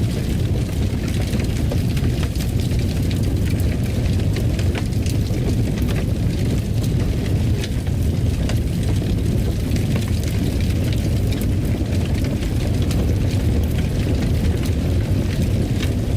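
Wood fire burning in a fireplace: a steady low rumble with scattered sharp crackles and pops throughout.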